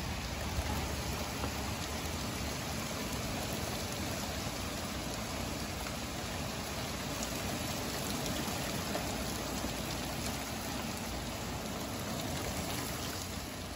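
Rain falling steadily, an even hiss of drops on the ground and surfaces.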